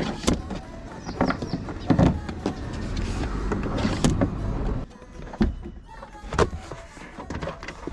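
Work noises inside a car's interior: sharp clicks, knocks and clatter of parts and tools being handled. A steadier, louder stretch starts about two seconds in and cuts off suddenly near five seconds.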